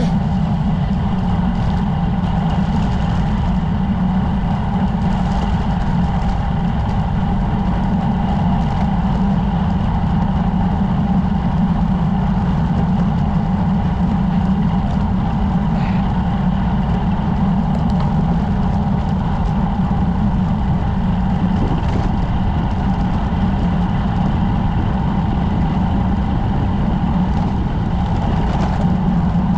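Steady wind and road noise from riding a road bike, heard on a camera mounted on the bike.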